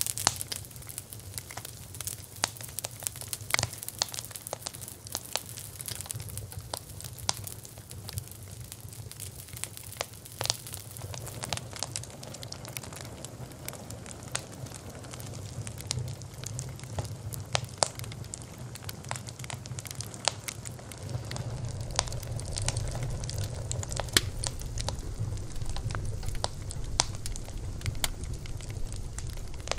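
Campfire burning with irregular sharp crackles and pops over a steady hiss; a low rumble of the flames grows stronger about two-thirds of the way through.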